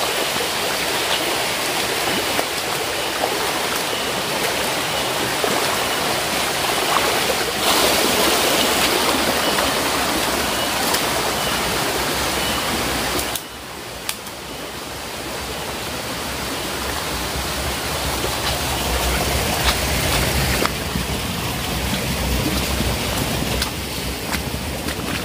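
Steady rush of water from a jungle waterfall and its rocky stream. About halfway through it drops suddenly to a quieter rush, and a low rumble builds up under it.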